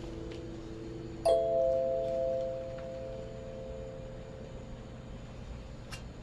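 A tuned chime-like percussion instrument ringing in a sound-healing meditation. A lower note is still fading out when one new strike about a second in sounds two clear notes, and these notes ring on and fade slowly.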